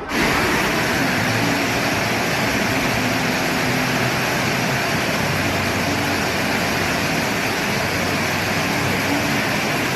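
Steady rushing noise of a moving vehicle, even throughout with a faint low hum, starting abruptly.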